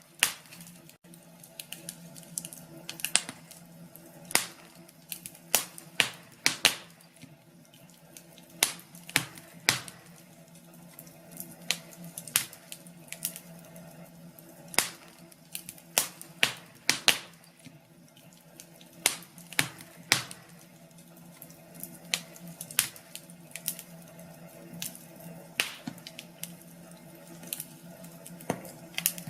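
Fire crackling in a fireplace: irregular sharp pops and snaps, roughly one a second, over a faint steady hum.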